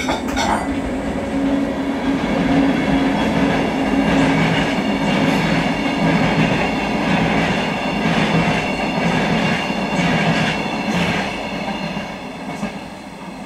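Train passing on the line: a steady low running hum with sharp clicks of wheels over the rails, swelling through the middle and fading away near the end.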